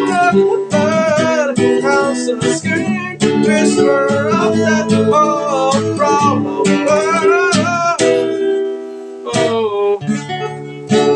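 Music: acoustic guitar strumming chords under a gliding melody line. The melody stops about eight seconds in, and it ends on a few separately struck, ringing chords.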